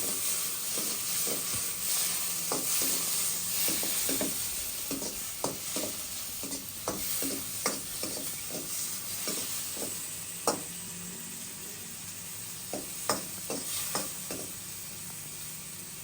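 Tomatoes frying in hot oil in a kadai: a steady sizzle with irregular clicks of a spoon or spatula stirring against the pan. The sizzle slowly dies down.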